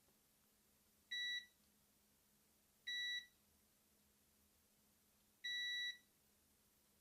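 Multimeter continuity beeper giving three short beeps, the last slightly longer, as capacitors on a circuit board are probed for shorts.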